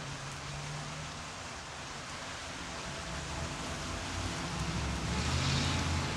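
Steady rain falling, with a low rumble that builds through the second half and the hiss swelling near the end.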